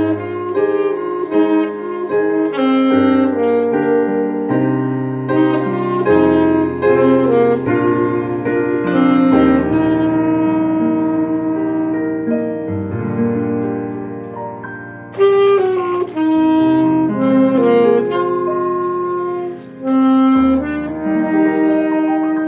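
Saxophone and piano playing a slow melody together: the saxophone carries the held melody notes while the piano plays bass notes and chords beneath.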